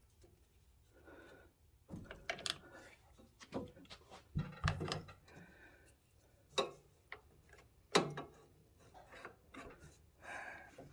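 Wrench working a bolt loose on a tractor alternator mount: scattered metal clicks and knocks with scraping and rubbing between them, the sharpest knocks about four and a half and eight seconds in.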